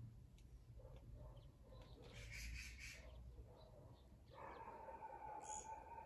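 Faint outdoor quiet with distant birds calling: a brief chattering call about two seconds in and a longer call near the end, over a low background rumble.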